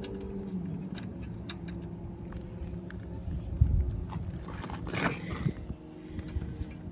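Small clicks and scrapes of tools and metal parts being worked while a push mower's carburetor is taken off, with one heavier knock about halfway through and a longer scrape soon after.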